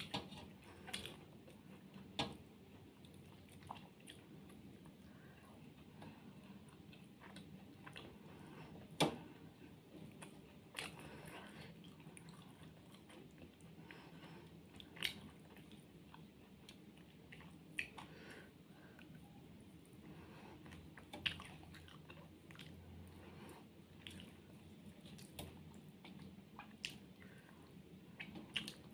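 A person chewing a mouthful of fish and rice: quiet, close chewing broken by a dozen or so short, sharp mouth clicks and smacks, the loudest about nine seconds in.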